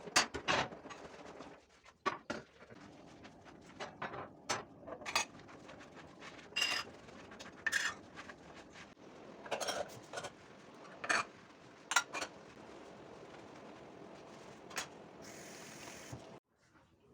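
Dishes and cutlery being handled and set down in a kitchen: about a dozen sharp clinks and knocks, some ringing briefly, with a short hiss of about a second near the end before the sound cuts off.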